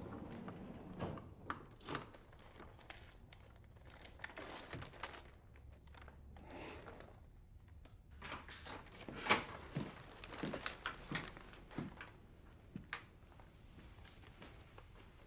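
Faint, scattered knocks and clicks with some rustling, irregularly spaced; the loudest knock comes about nine seconds in, followed by a busier run of clicks over the next few seconds.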